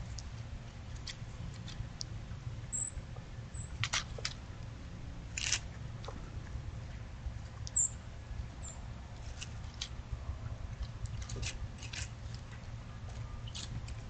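Small birds at the water's edge: scattered sharp ticks and a few brief, very high chirps over a steady low hum.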